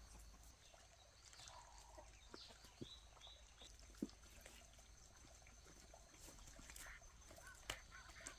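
Near silence with faint, scattered poultry calls, including a quick run of three high peeps about two and a half seconds in, and a few light clicks.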